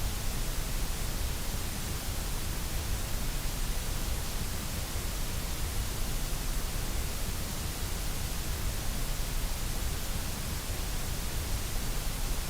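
Steady, unchanging white noise: an even hiss spread across all pitches.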